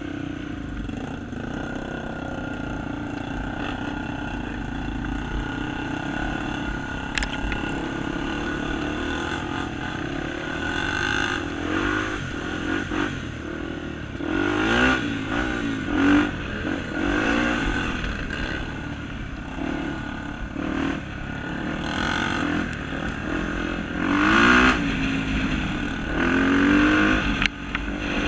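Honda Tornado 250 trail motorcycle engine, a four-stroke single, running steadily at first, then revving up and down again and again through the second half as it is ridden hard.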